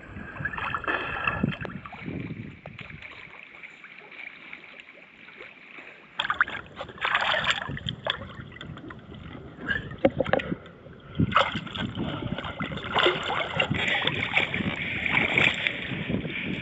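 Water splashing and sloshing around a person swimming in a river, uneven and choppy, quieter for a few seconds before picking up again about six seconds in.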